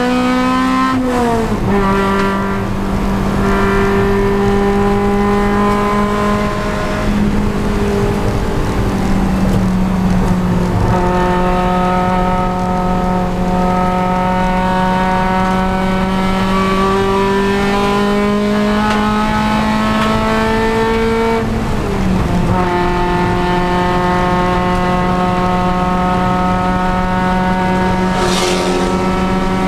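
Honda Civic Si race car's four-cylinder engine running at high revs under full throttle, its pitch climbing slowly and dropping sharply twice as the driver lifts or shifts. A brief high hiss comes near the end.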